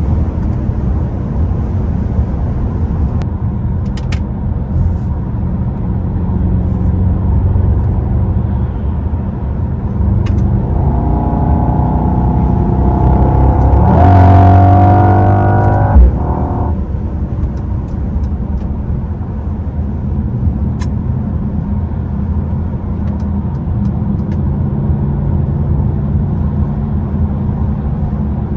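The 2022 Mercedes-AMG GLE 63 S's twin-turbo hybrid V8, heard from inside the cabin at highway cruise: a steady low drone with road noise. About halfway through, with the transmission down a gear, the engine note rises in pitch and gets louder. It ends in a single sharp thump, and the engine settles back to the steady cruising drone.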